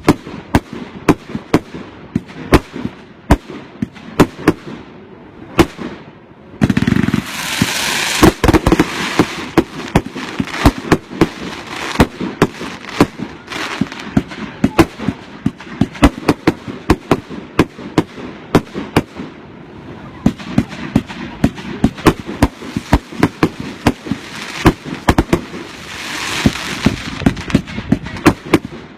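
Fireworks going off in quick succession: a steady string of sharp bangs, a few each second. A loud rush of hiss and crackle comes in about seven seconds in and again near the end.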